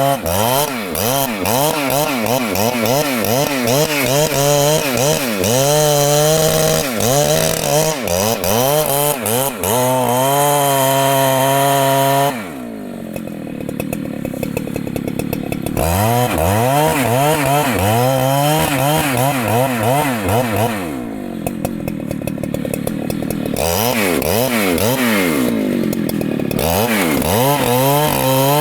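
Husqvarna two-stroke chainsaw cutting wood, its engine pitch rising and falling again and again as the chain loads up in the cut. It eases off to a lower, steadier running twice, about twelve seconds in and again about twenty-one seconds in, before revving back up.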